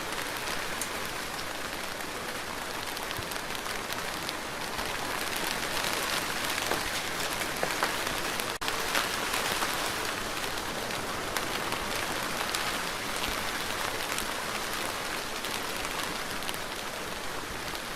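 Steady rain falling, an even hiss with scattered drop ticks, swelling slightly in the middle. The sound cuts out for an instant a little past halfway.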